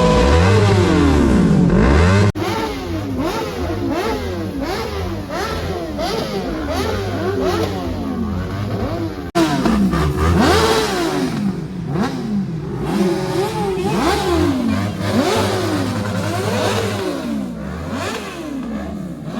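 Several motorcycle engines revving, their pitches sweeping up and down over one another again and again. The sound changes abruptly twice, about two and nine seconds in.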